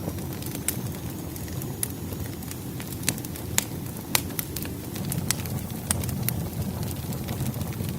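Burning firewood crackling: irregular sharp pops and snaps, one or two a second, over a low steady rumble of the fire.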